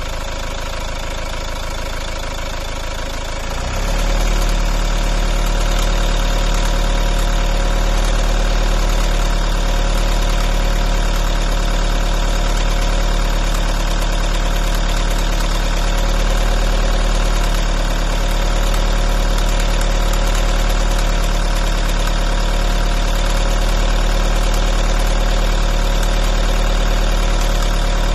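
Volvo V50 engine running steadily at idle, with the strange noise that puzzles its owner. About four seconds in, a deep low hum comes in on top of it, the sound grows louder, and it then holds steady.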